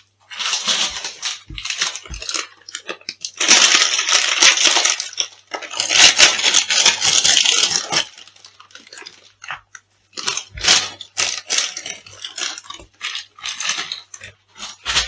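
Food crushed and crunched underfoot, with dense crackling and crumbling in two long stretches about three and a half and six seconds in, and scattered crisp cracks between them.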